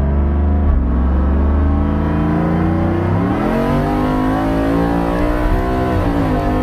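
2018 Ford F-150's 5.0 Coyote V8 running through 1 7/8 catless headers, loud: a deep low rumble at first, then the engine note climbs in pitch about three seconds in, holds, dips briefly near the end and settles. The sound is what the owner finds too loud and bad, with the cats removed.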